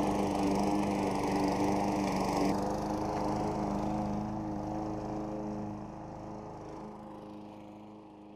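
Briggs & Stratton 500E 140cc single-cylinder engine of a push lawn mower running at a steady pitch, fading out gradually. The hissy top end drops away suddenly about two and a half seconds in.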